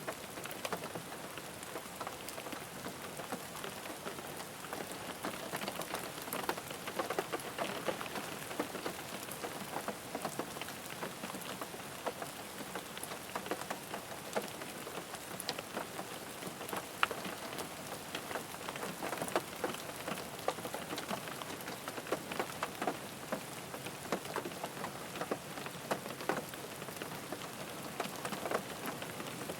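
Steady rain falling on a car's roof and glass, heard from inside the cabin: a continuous hiss with many separate drop taps.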